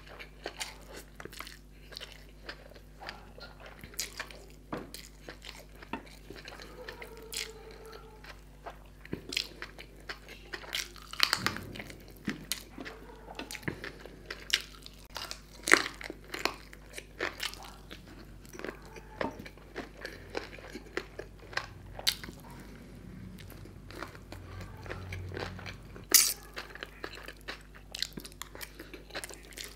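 Close-miked chewing and biting of spicy fried noodles and a roasted chicken leg, with wet mouth clicks and sharper crunches scattered throughout.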